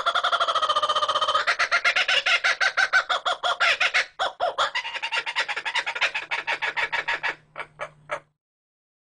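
Bird calls: a fast, chattering run of repeated calls that thins out and stops abruptly about eight seconds in.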